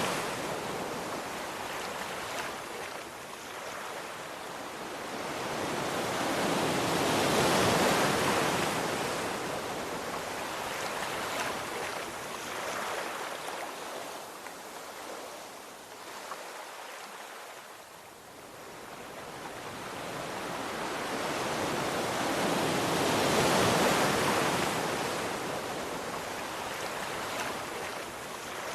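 Ocean waves breaking and washing on a shore, the surf swelling and ebbing in slow surges, loudest twice.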